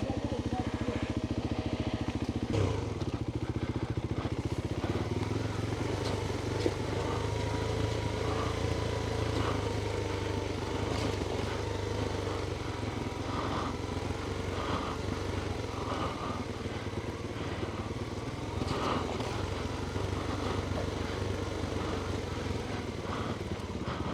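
Adventure motorcycle engine running steadily at low revs, with a couple of short knocks about three and seven seconds in.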